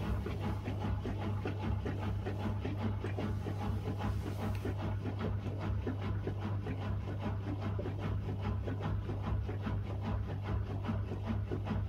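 Miele W1 front-loading washing machine running mid-cycle: a steady low motor hum with a fast, even pulsing of the turning drum, about four beats a second.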